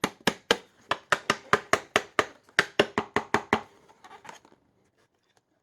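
A Hoover NanoLite's dust cup and filter being rapped against a hard surface to knock the dirt out: a quick run of sharp knocks, about four or five a second, thinning out and stopping about four seconds in.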